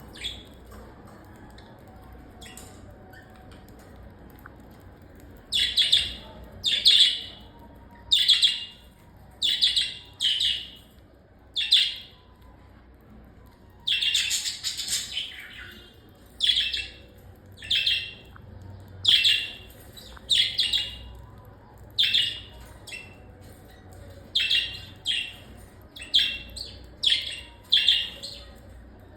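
A bird giving short, loud chirping calls over and over, about one a second after a quiet first few seconds, with a longer run of calls about halfway through.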